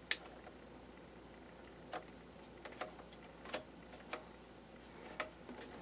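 Light, scattered clicks and taps of a laptop's metal CPU heatsink and fan assembly being set back into place in the chassis, about nine of them at uneven intervals, the first the sharpest.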